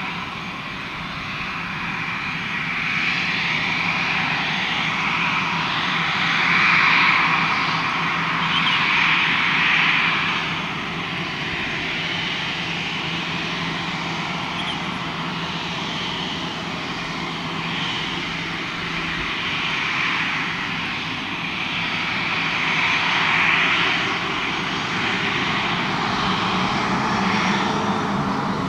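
Airbus A320's twin turbofan jet engines running at a steady, loud pitch as the airliner prepares for takeoff, swelling louder a few times.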